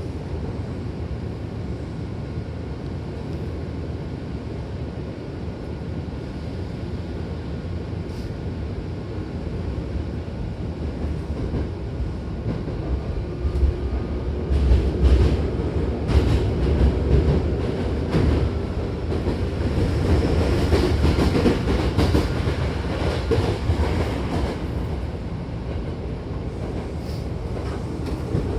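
Hankyu Kyoto Line electric train heard from inside the carriage while running: a steady rumble with wheels clicking over rail joints. The noise grows louder and busier about halfway through, then eases again near the end.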